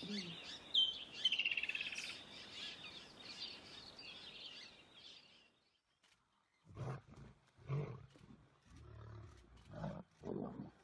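Birds chirping, with a quick falling trill of calls, then after a short pause a lion giving a series of about five low, grunting roars.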